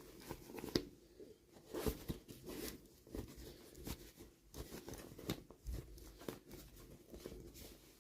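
Hands handling toy packaging at close range, making irregular rustling and crinkling with many small clicks and taps.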